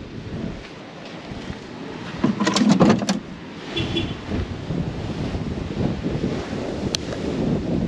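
Strong gusty wind buffeting the microphone, with storm surf behind it. A short loud clatter comes a little over two seconds in, and a single sharp click near the end.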